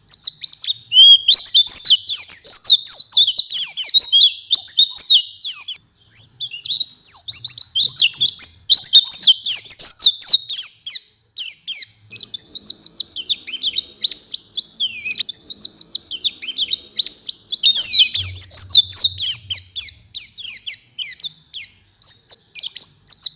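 White-eye (pleci) singing a fast, varied, twittering song of high chattering phrases, with a few short pauses between bouts.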